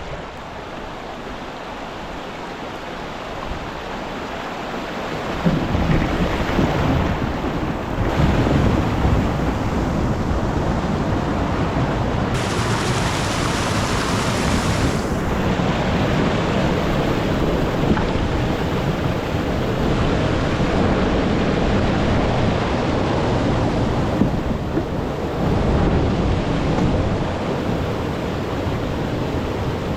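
Steady rush of river rapids just above a waterfall, louder from about five seconds in, with wind buffeting the microphone.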